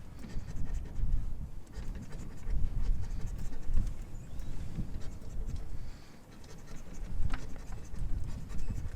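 Scratch-off lottery ticket being scratched: an irregular, stop-start scraping with a short lull about six seconds in.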